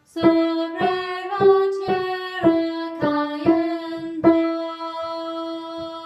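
A voice singing a sustained melody line over a small strummed string instrument, about two strums a second. The last chord, struck about four seconds in, is left to ring out as the song ends.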